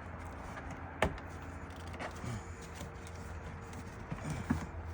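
Plastic engine-bay parts being worked loose by hand: one sharp click about a second in, then faint scraping and rustling, over a steady low hum.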